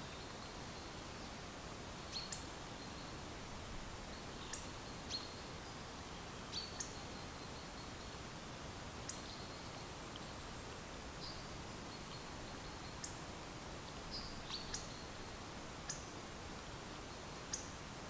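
Small birds giving brief high chirps, about fifteen at irregular intervals, each dropping quickly in pitch, over a steady outdoor hiss.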